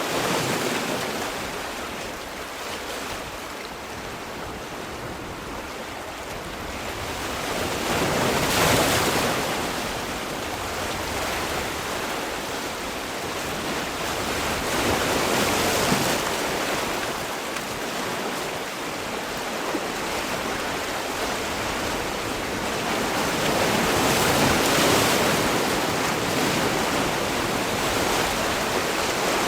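Sea waves breaking and washing on a shore, each wave swelling and falling away, about four breakers in half a minute.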